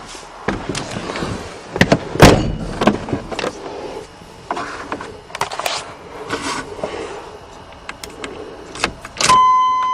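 Irregular clunks, knocks and rattles inside an old pickup truck's cab, from the door and keys being handled; the loudest knock comes about two seconds in. Near the end a sharp click is followed by a steady high tone.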